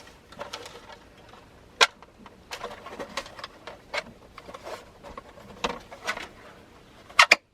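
Small sharp clicks and taps of plastic and metal parts being handled, as gauge mounting clamps are pressed onto the gauges. A louder click comes about two seconds in and a sharp double click near the end.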